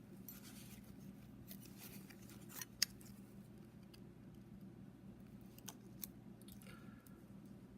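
Faint metallic clicks and scrapes of thin steel feeler gauge blades being tried against a piston ring in its groove, with one sharper click about three seconds in. The blade will not slip in, a sign that the ring's side clearance is tighter than the blade's thickness. A steady low hum runs underneath.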